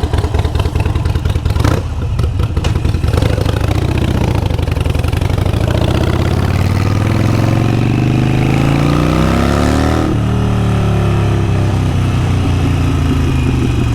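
Harley-Davidson Sportster 883 Iron's V-twin engine through a Vance & Hines exhaust while riding: a choppy beat at first, then the revs climb steadily for several seconds, peaking about ten seconds in, and fall away as the throttle closes.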